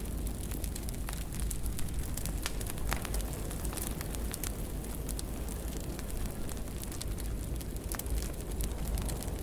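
Fire burning in a fireplace: a steady low rumble of flames with frequent irregular crackles and sharp pops.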